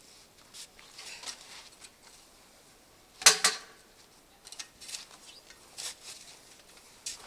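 Quiet handling sounds, small clicks and rustles, with one sharp knock or clatter that rings briefly about three seconds in.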